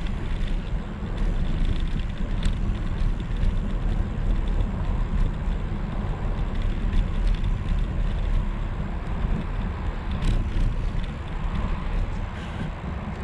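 Steady low wind rumble on an action camera's microphone and tyre noise from an e-bike in motion, with a couple of brief clicks.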